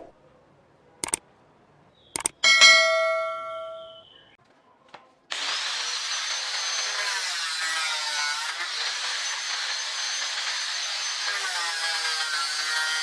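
A couple of sharp knocks and a metallic ding that rings for about a second and a half, then about five seconds in a small electric power tool starts and runs steadily working wood, its whine dipping and recovering every two to three seconds under load.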